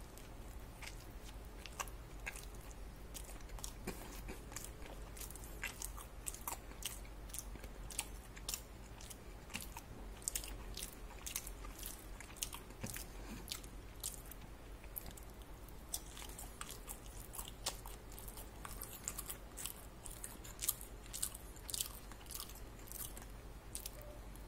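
A person chewing crispy French fries: a quick run of sharp crunches that gets denser in the second half.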